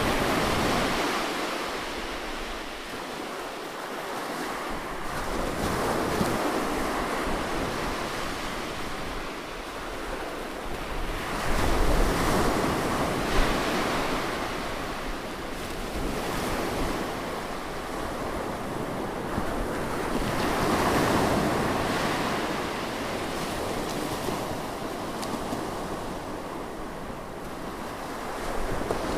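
Ocean waves breaking and washing in, a steady rushing surf that swells and falls back every several seconds, with the loudest surge about twelve seconds in.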